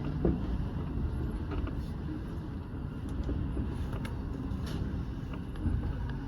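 Running noise of a commuter train heard from inside the leading car: a steady low rumble, with a short sharp sound falling in pitch about a quarter second in and a few faint ticks after.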